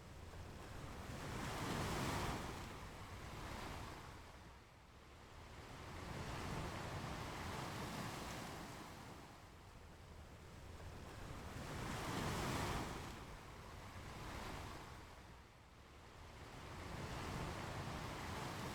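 Ocean waves breaking and washing up a beach, the surf swelling and fading about every five seconds, four times.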